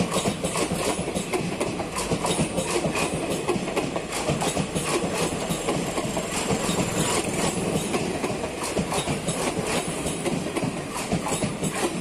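Passenger coaches of an Indian Railways express train rolling past at close range: a steady rumble with wheels clattering irregularly over the rail joints.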